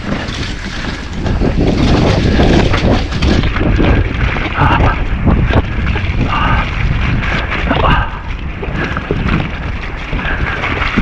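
Wind buffeting an action-camera microphone during a fast mountain-bike descent, over a continuous low rumble of tyres on wet trail and the rattle and knocks of the Nukeproof Giga's frame and chain over rough ground.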